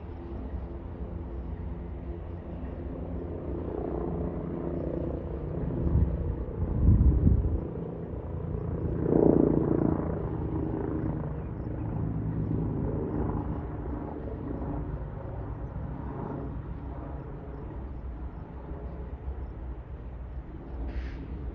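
Rocky Mountaineer passenger train rolling past: a steady low rumble and engine drone, with two louder swells about six and nine seconds in.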